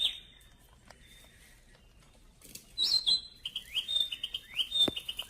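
A bird calling: after a quiet stretch, a chirp about two and a half seconds in, then a quick run of short rising notes, repeated several times. A single sharp click near the end.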